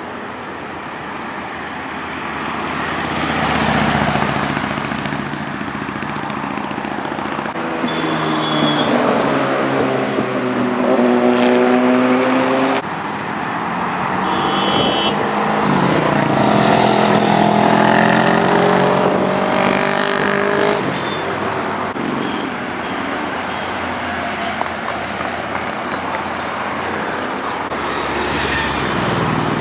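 Superbike engines passing on a road amid traffic noise: one engine note climbs as the bike accelerates and cuts off abruptly a little before halfway, and another rises and then falls as a bike goes by past the middle.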